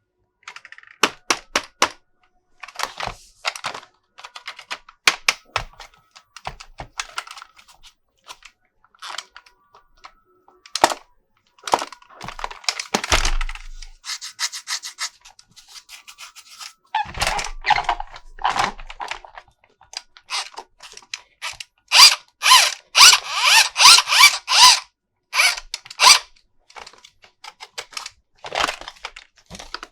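Plastic toy parts and packaging being handled: scattered clicks and snaps with rubbing and rustling, busiest and loudest about three quarters of the way through.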